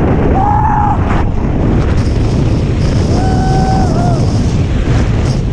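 Heavy wind buffeting a GoPro's microphone, a loud, continuous low rumble. Twice a short, steady, pitched tone rises, holds for under a second and falls away: once about half a second in, and again around three seconds in.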